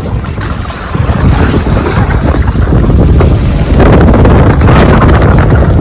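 Wind buffeting the microphone on a moving pickup, with water sloshing in the inflatable pool in its bed. It gets louder about a second in and again near four seconds.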